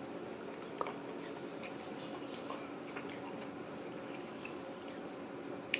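Faint chewing and small wet mouth clicks of someone eating a burrito bowl, with a couple of sharper clicks, over a steady low room hum.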